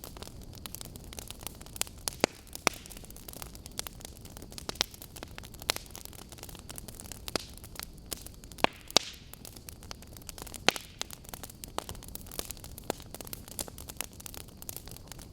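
Burning logs crackling: irregular sharp pops and snaps over a steady low hiss, with a handful of louder snaps scattered among the small ones.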